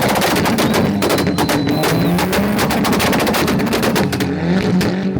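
Car engine held on a two-step launch-control rev limiter, with rapid, irregular popping and banging from the exhaust over a wavering engine note.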